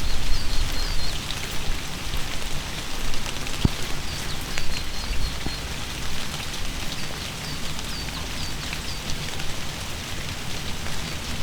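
Steady rain falling, with individual drops ticking sharply on surfaces. Short high chirps repeat throughout over the rain.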